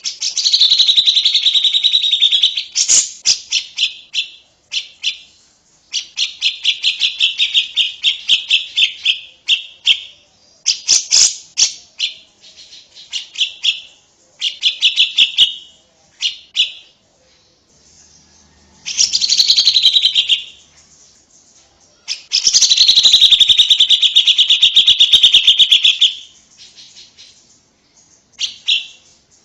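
Songbird singing loud, fast trilled phrases of rapidly repeated notes, each phrase lasting one to four seconds, with short pauses between them.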